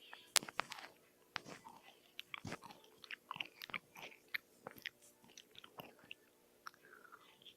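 Close-miked chewing and crunching of a crisp food, with many short, sharp crunches and mouth clicks at an irregular pace.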